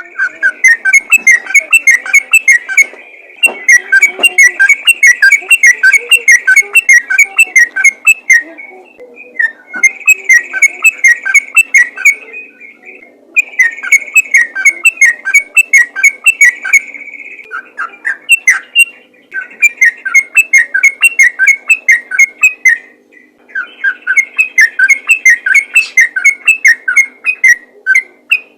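Yellow-vented bulbul (trucukan) singing its rapid-fire 'ropel' song: fast runs of clear chattering whistled notes in bouts of a few seconds, broken by short pauses.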